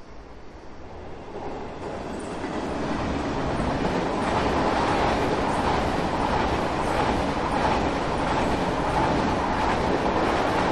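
KTX-Sancheon high-speed train passing close: a steady rush of wheels on rail with a rhythmic clatter, building over the first few seconds as it approaches and then holding.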